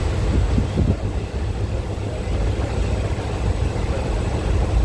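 Passenger train running: a steady, heavy low rumble of the coach on the track.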